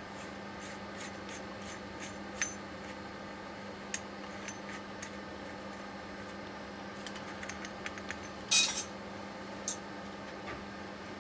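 Metal parts and hand tools clinking and clicking as a steering rack is taken apart, with a louder metallic clatter about eight and a half seconds in, over a steady low hum.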